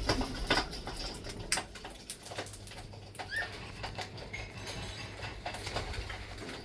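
Scattered small clicks and scratches from pet parrots moving about, with one short chirp about three seconds in.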